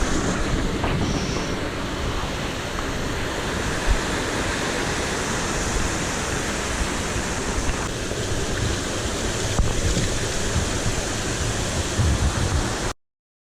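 Steady rush of a waterfall pouring into its plunge pool, with a couple of brief knocks, cutting off abruptly near the end.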